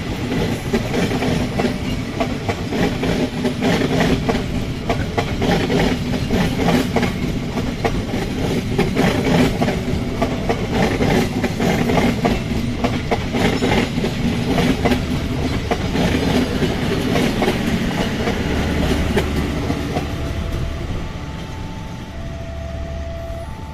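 A train rolling past at a level crossing, its wheels clicking rapidly over the rail joints, the sound fading over the last few seconds. Near the end a steady two-tone beeping starts, alternating between a higher and a lower note.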